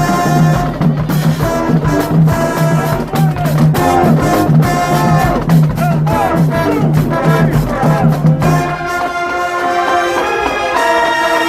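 High school marching band playing brass and drums: a pulsing low bass line under brass figures and drum hits, giving way to held brass chords about eight and a half seconds in.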